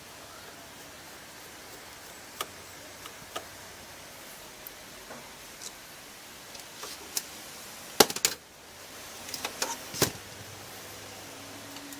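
Scattered clicks and taps of small plastic and metal parts being handled while working on a dot-matrix printer, with a sharp cluster of clicks about eight seconds in and another around ten seconds.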